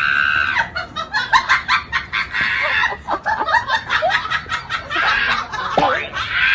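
A group of husky puppies squeaking, whining and yipping, many short high calls overlapping, some falling in pitch, with a few longer held whines.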